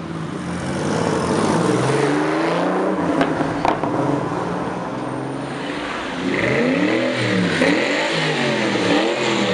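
Supercar engines revving on the street. The revs rise and fall over the first few seconds, two sharp cracks come about three seconds in, and from about six seconds on one engine is blipped up and down in quick repeated revs; this is the Noble M600, with its twin-turbo V8, pulling away.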